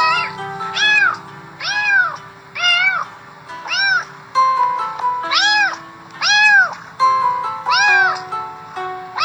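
A cat meows over and over in a steady rhythm, a little more than once a second, each meow rising and then falling in pitch, with background music underneath.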